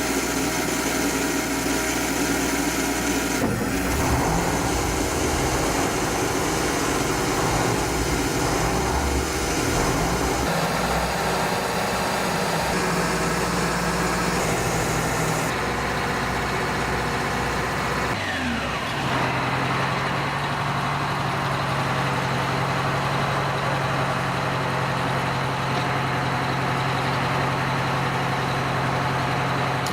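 Heavy military truck engines running and idling, the sound changing abruptly several times as from one truck or shot to another; for roughly the last ten seconds a single steady, even idle.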